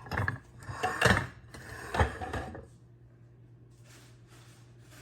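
Plates and bowls knocking and clattering as they are handled and set down, a few sharp knocks over the first two and a half seconds, then faint rustling near the end.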